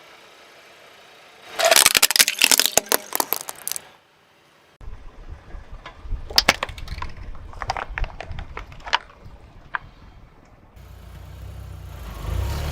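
Crunchy objects cracking and snapping under a car tyre. A dense burst of crackling lasts about two seconds, then after a short pause come scattered sharp cracks over the low rumble of the car.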